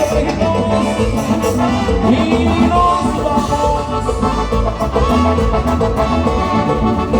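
A live regional Mexican band playing an instrumental passage with a steady beat, a bass line and held melody notes.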